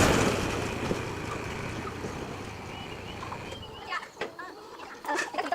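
A motor vehicle's running noise fades away over the first few seconds and stops abruptly. Then chickens begin clucking in short calls.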